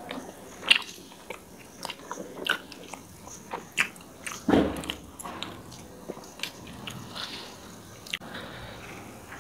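Chewing and mouth sounds from eating tandoori roti with chicken korma: irregular wet smacks and clicks. About four and a half seconds in comes a louder, longer sound as a piece of roti is torn.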